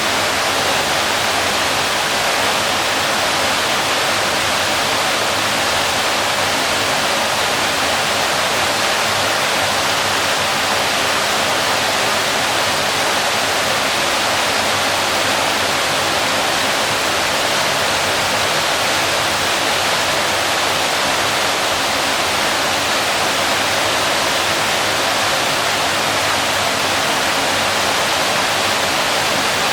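Waterfall: water falling and splashing steadily in an even, unbroken rush.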